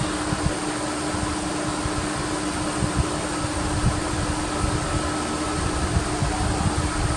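Steady mechanical hum with a constant tone and an even hiss, over uneven low rumbling.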